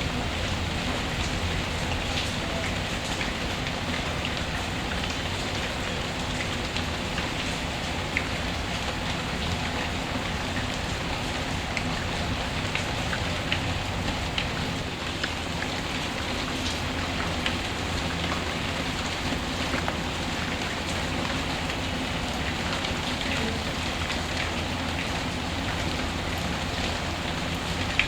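Recorded rain ambience: a steady hiss of rainfall with many small, sharp ticks scattered through it.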